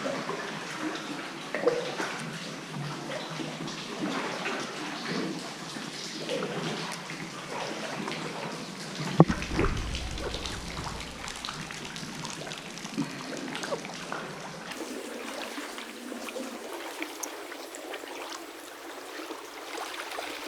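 Seawater splashing and trickling around a kayak as it is paddled, with a sharp knock about nine seconds in.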